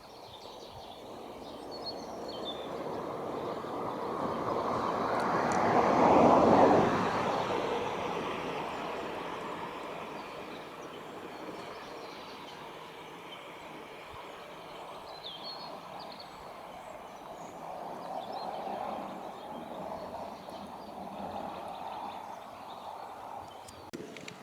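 A vehicle passing by: a rushing noise that builds to a peak about six seconds in and fades away, then a second, weaker swell later on, with a few faint bird chirps.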